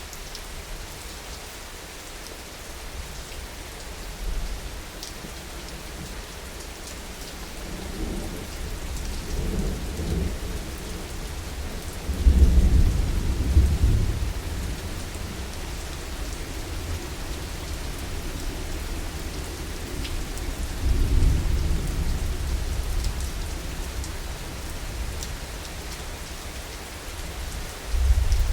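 Steady heavy rain with rolling thunder: a deep rumble builds about eight seconds in, the loudest peal comes about twelve seconds in and lasts a couple of seconds, another rolls in a little after twenty seconds, and a short one near the end.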